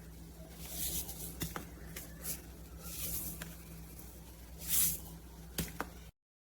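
Handling noise: short rustling hisses and a few sharp clicks over a low steady hum. The sound cuts off abruptly near the end.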